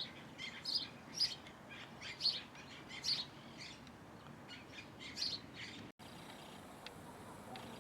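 A bird chirping: short, quick calls repeated about twice a second, stopping about five seconds in. Near six seconds the sound cuts off abruptly, leaving a faint, steady background with a couple of faint ticks.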